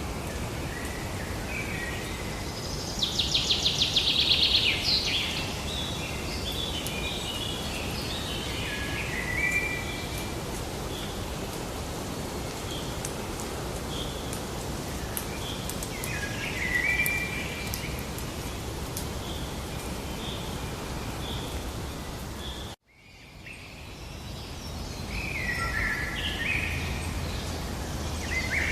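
Several songbirds singing in short chirps and warbled phrases, including a fast, loud trill about three seconds in, over a steady background hiss of outdoor ambience. About 23 seconds in the sound cuts out abruptly and fades back in with more birdsong.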